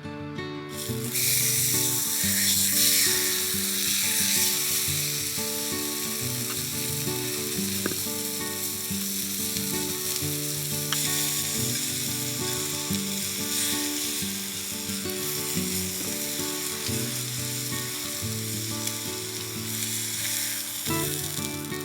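Meat sizzling as it grills over a wood fire, a steady hiss that starts about a second in, with soft background music underneath.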